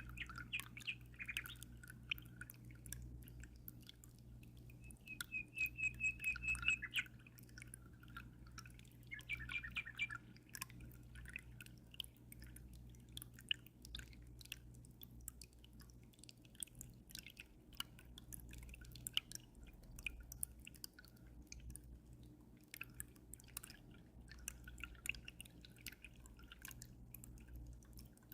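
Water dripping and trickling in many small clicks, with birds chirping now and then, including a clear trill about five seconds in. A steady low hum runs underneath.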